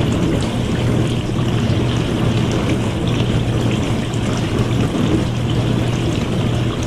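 Dishwasher running: a steady motor hum under the noise of water spraying and splashing inside the tub.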